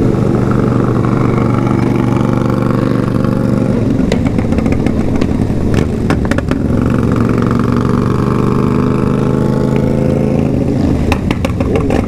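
Motorcycle engine running at a steady speed. About four seconds in it eases off with a burst of sharp crackling pops, typical of a remapped bike's exhaust popping, then pulls steadily again. More pops come near the end.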